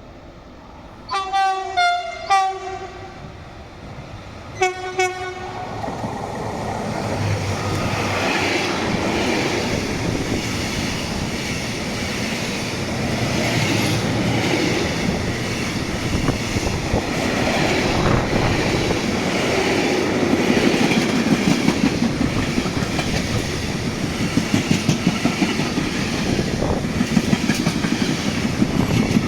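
A freight train's locomotive sounds its horn in a few short blasts in the first two seconds, then two more about four seconds in. The train then passes, its wagons rumbling louder with a rhythmic clatter of wheels over rail joints.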